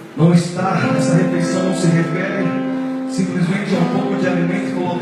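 Instrumental church worship music with guitar, coming in about a quarter second in and holding steady chords.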